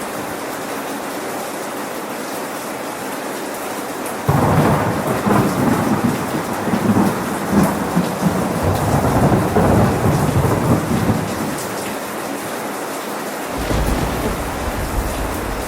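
Steady rain with a thunderclap about four seconds in that rolls on as a rumble for several seconds and fades. A second low rumble of thunder comes in near the end.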